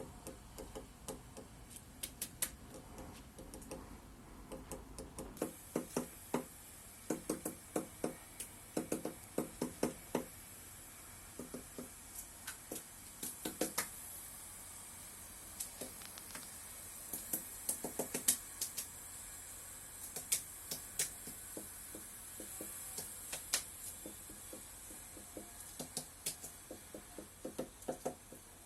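Woodpecker pecking at wood while foraging for insects: irregular knocks, some single and some in quick runs of several.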